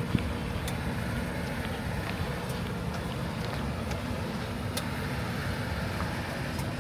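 1996 Chevrolet Impala SS's 5.7-litre LT1 V8 running steadily with a low, even rumble, with a few faint ticks.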